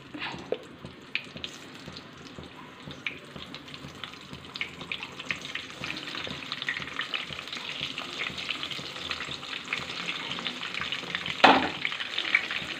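Brinjal slices rubbed with salt and turmeric sizzling and crackling in hot oil in a non-stick kadai. The sizzle builds as more slices go in, and there is a sharp knock about a second before the end.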